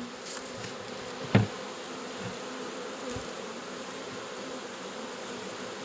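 A swarm of honey bees buzzing steadily in and around a hive box, a newly hived swarm settling in. A single sharp tap about a second and a half in.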